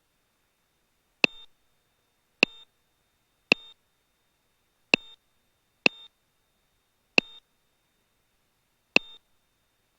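Cockpit avionics beeping seven times at uneven intervals, each beep a sharp click followed by a short multi-tone chirp, heard over the intercom audio feed with no engine noise in between.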